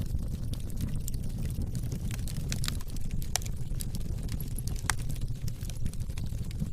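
Oak-wood fire in a fireplace burning with a steady low rumble and scattered sharp crackles and pops.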